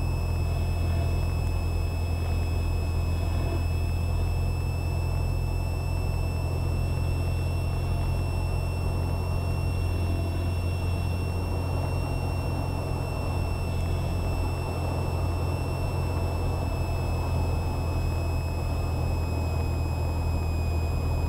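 Cessna 172R's Lycoming four-cylinder engine and propeller droning steadily in the cockpit, throttled back for the landing approach. A thin steady high-pitched whine sits over the drone.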